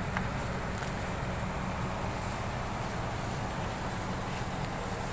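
Heavy-equipment diesel engine running steadily, a low even drone, with a couple of faint clicks in the first second.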